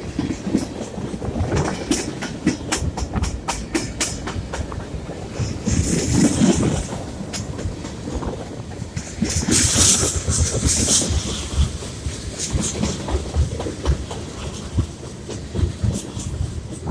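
Freight train cars rolling past, wheels clicking over rail joints over a steady low rumble, with short high-pitched bursts about six and ten seconds in.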